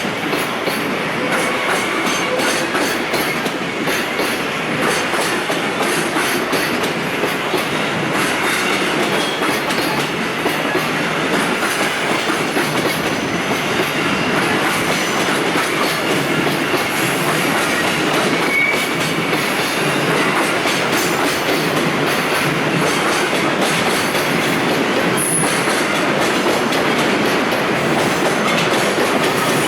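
Container freight train rolling past, its wagon wheels clattering over the rail joints in a steady, loud rush that grows slowly louder, with a short wheel squeal now and then.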